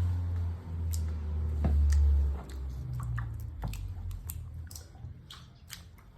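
Wet squelching and small irregular clicks, as of bare feet squishing in a tub of baked beans, under a low rumble that is loudest for the first two seconds or so.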